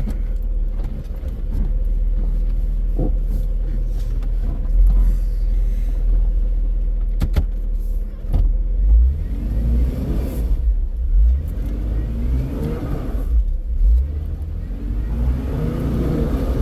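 Jeep engine under load, revving in repeated surges over a steady low rumble as the stuck vehicle is driven to climb free on a rough trail. The surges begin about halfway through.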